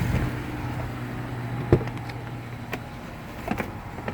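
2007 Chevy Avalanche's 5.3-litre Vortec V8 idling smoothly at operating temperature, with a steady low hum that fades near the end. A few sharp clicks sound over it, the loudest nearly two seconds in. Its cold-start knock has died away now that the engine is warm.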